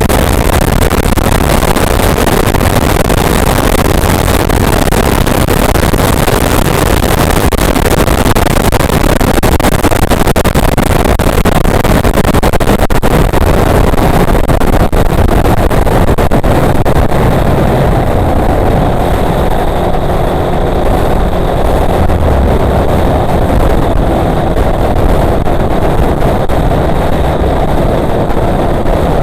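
Motorcycle ridden at full throttle at high speed, its engine buried under heavy rushing wind noise. The high hiss lessens in the last third.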